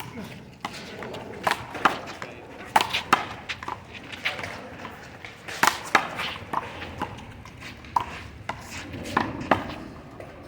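Sharp smacks of a small rubber handball during a one-wall handball rally, as it is struck by hand and bounces off the wall and the pavement. About fifteen quick cracks come at uneven intervals, some in close pairs.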